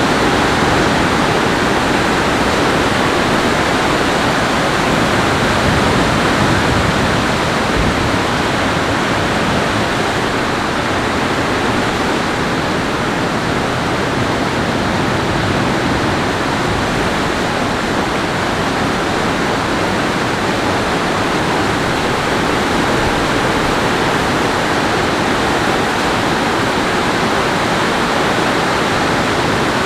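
Loud, steady rush of water, an even noise with no breaks or changes.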